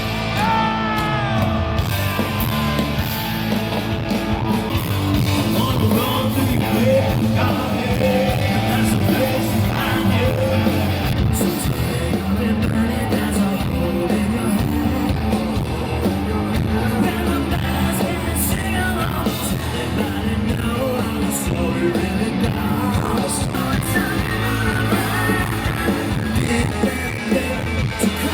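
A live rock band playing a song, with a singer over loud electric guitars, bass and drums.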